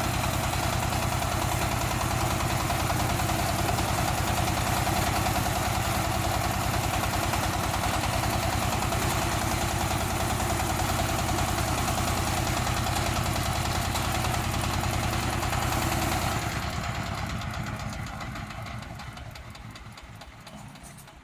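Mini crawler tractor cultivator's engine running steadily with an even pulsing beat, then dying away over the last few seconds.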